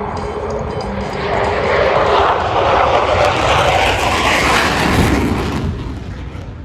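Military jet passing at an air show, its engine noise swelling about a second and a half in, staying loud for several seconds, then fading near the end.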